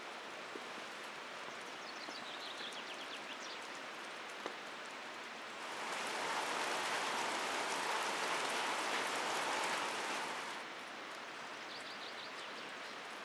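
Steady rain falling. About six seconds in it turns louder and denser for around five seconds, then drops back to the steady patter. Faint high chirps come through twice.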